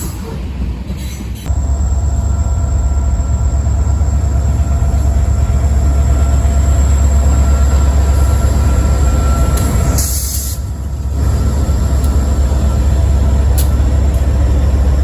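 Freight train cars rolling past on the track: a steady low rumble with faint wheel squeal. A brief high-pitched sound comes about ten seconds in.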